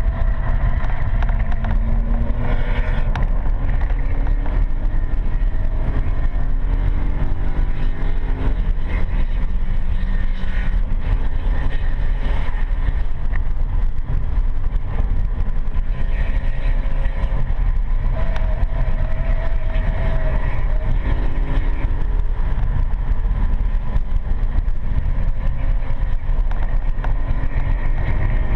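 BMW M3 E92's 4.0-litre V8 heard from inside the cabin under hard track driving, its pitch climbing several times as it accelerates, over a heavy low rumble of road and wind noise.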